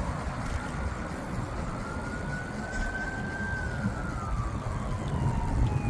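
A siren wailing in one slow rise and fall of pitch over a few seconds, over steady low rumble from wind on the microphone of the moving bike.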